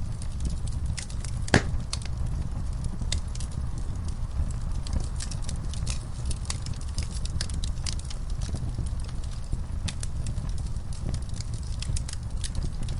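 Fire burning in a fireplace, crackling with irregular small pops over a steady low rumble, and one louder pop about a second and a half in.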